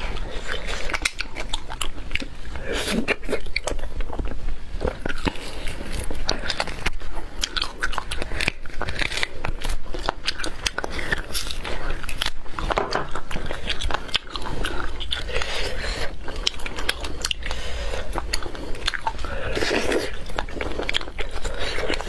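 A person biting and chewing food close to a clip-on microphone: many sharp, irregular crunching clicks mixed with wet mouth sounds.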